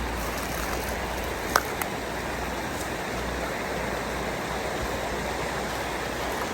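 Steady rushing of flowing river water, with a low rumble beneath it and a single sharp click about a second and a half in.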